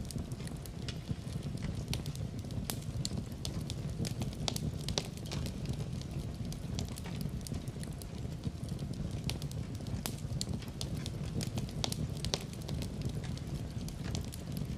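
Wood fire in a fireplace crackling steadily, with frequent irregular pops and snaps over a low, constant rumble of burning.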